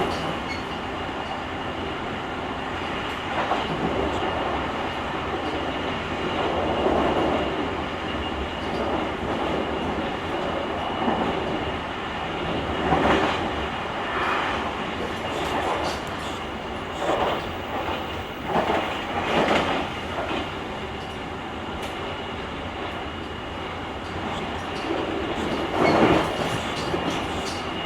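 JR Kyushu 883 series limited express running at speed, heard from the vestibule of a motor car: a steady wheel-and-rail rumble with a faint high whine held throughout. Louder surges of clatter come several times, strongest about 13 s and 26 s in.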